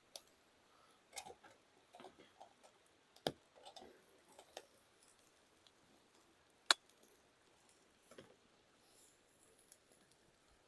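Faint, scattered light clicks and taps of a utensil working in a frying pan as softened onions are pushed into two mounds. One sharp click about two-thirds of the way through is the loudest.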